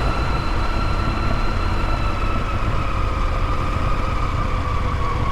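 KTM adventure motorcycle being ridden at a steady pace, its engine running under a dense low rumble, with a steady whine that sinks slightly in pitch.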